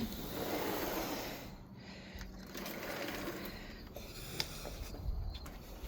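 A sliding patio door, freed of its security rod, rolling open along its track with a steady rumble and a few small clicks.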